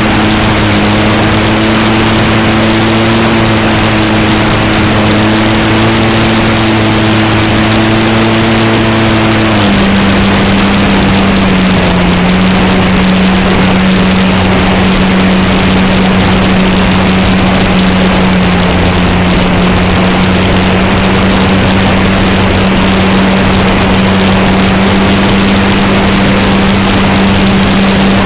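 Electric motor and propeller of an E-flite Cherokee 1.3m RC plane droning steadily in flight, heard from the onboard camera over a steady rushing noise. The pitch drops slightly about ten seconds in, then holds.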